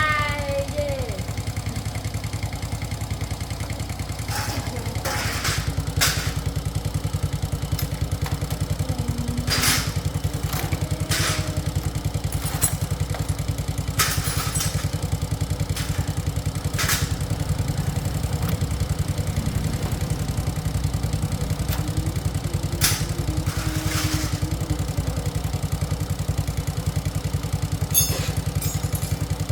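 A 2004 SYM motorcycle engine idling steadily. Scattered short clicks and knocks, about a dozen, come over the top of it.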